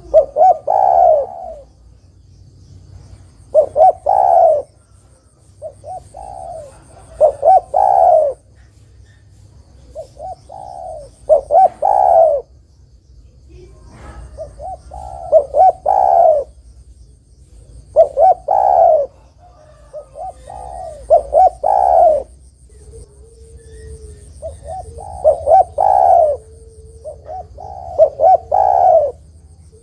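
Spotted dove cooing: a loud phrase of several quick coos, repeated about every three and a half to four seconds.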